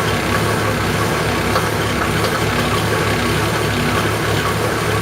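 Mercedes 350SDL's 3.5-litre turbodiesel straight-six idling steadily, still cold after a start at 9°F.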